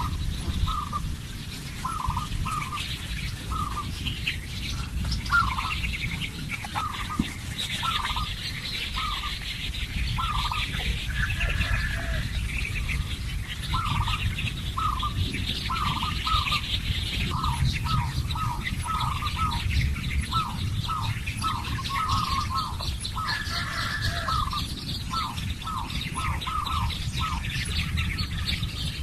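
Birds calling: a long run of short, repeated calls, about one or two a second, with higher chirping behind them, over a steady low rumble.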